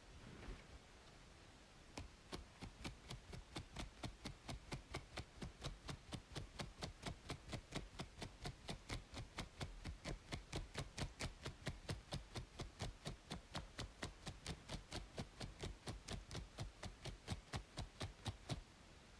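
Rapid, evenly spaced scratching strokes on a scalp between braids, about four or five a second, starting about two seconds in and stopping shortly before the end, over a steady faint white-noise hiss.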